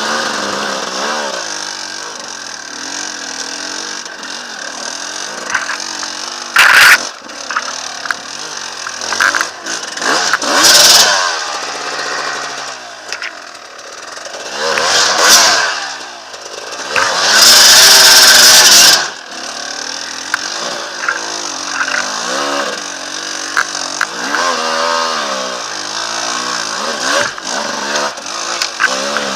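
Enduro dirt bike engine revving up and down over and over, with several hard bursts of throttle. The loudest burst, about two seconds long, comes a little past halfway.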